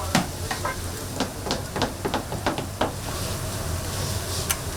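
Oil sizzling as twisted doughnuts deep-fry. A quick, irregular run of light clicks and knocks fills the first three seconds, then only the steady sizzle goes on.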